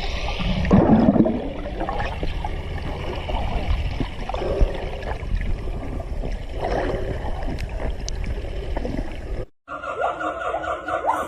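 Water sloshing and gurgling over a low rumble, as in footage of a shark in the sea. It cuts off suddenly about nine and a half seconds in.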